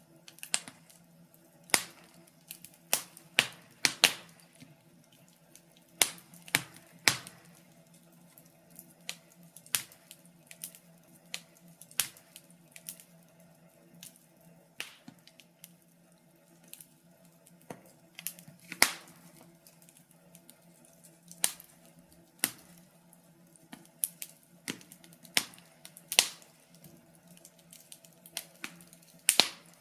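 Wood fire in a fireplace crackling, with irregular sharp pops, some in quick clusters, over a faint steady hum.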